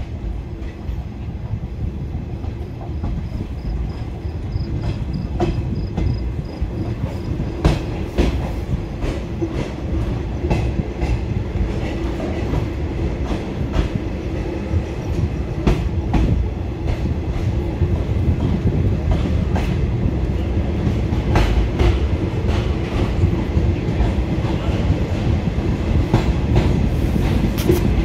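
Railway coach wheels running on the track, heard from the coach's open doorway: a steady rumble with the clickety-clack of wheels over rail joints. It grows louder, and the clicks come more often in the second half.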